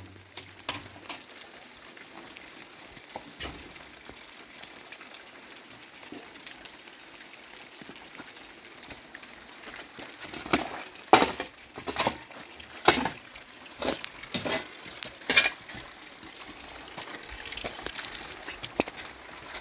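Steady hiss of rain, with a run of sharp knocks and clatters from about ten to sixteen seconds in.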